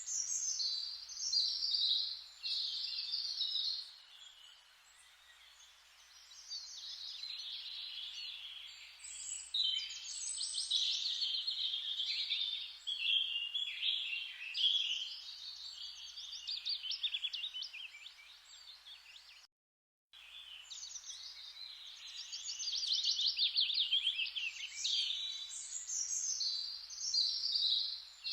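Forest ambience: many songbirds chirping and trilling at once over a steady soft rustling hiss. The sound cuts out completely for half a second about two-thirds of the way through.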